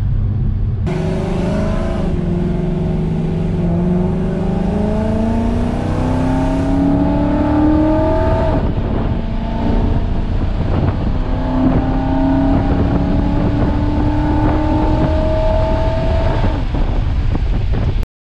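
Supercharged 5.0 V8 of a 2017 Mustang GT heard from inside the cabin, accelerating hard with its pitch climbing steadily for several seconds. It drops back about halfway through, then climbs again in a second pull. These are tuning pulls on a new Paxton supercharger setup, and the sound cuts off abruptly near the end.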